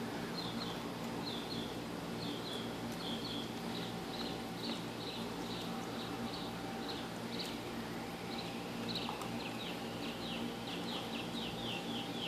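A small bird chirping in quick runs of short, high notes, over a steady low hum. Dogs gnawing raw meaty bones add a few sharp cracks.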